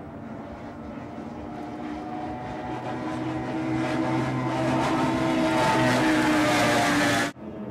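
Offshore race boat engines running at speed, growing steadily louder as the boat comes closer, with rushing water and spray hiss rising alongside; the sound cuts off abruptly near the end.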